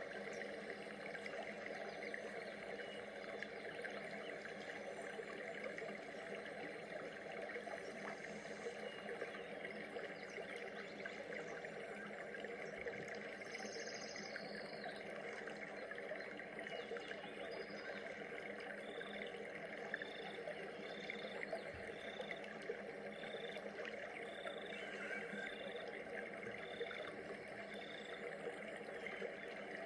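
Steady, dense ambient background with a faint flowing-water texture. In the second half a short high call repeats about nine times, evenly spaced.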